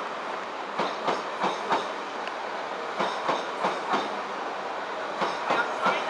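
Class 395 Javelin electric multiple unit rolling past at low speed. A steady rolling noise comes from its wheels, with clicks in groups of about four as each pair of bogies crosses the track joints, a group roughly every two seconds.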